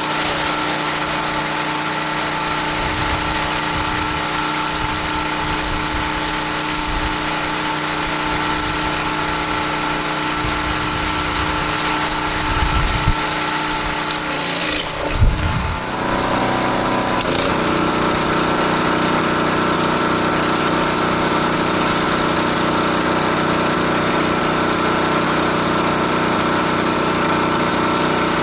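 Gas pressure washer engine running steadily under a constant hiss. About halfway through its note changes briefly, then it settles back into an even run.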